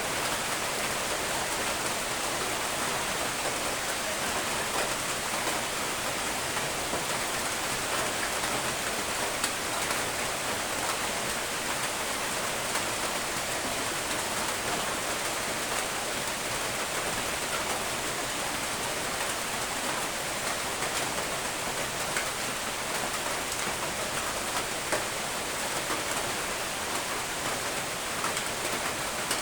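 Steady rain, an even hiss with scattered drop ticks throughout.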